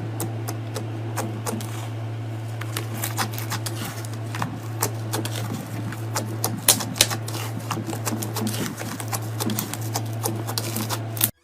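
Slime being squeezed and worked by hand, giving a dense, irregular run of sticky clicks and small air-bubble pops over a steady low hum. Two louder pops stand out a little past the middle.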